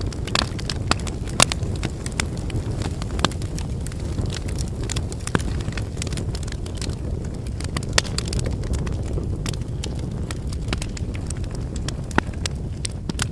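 Wood campfire burning: a steady low rush of flame with irregular sharp crackles and pops from the burning logs, some much louder than the rest.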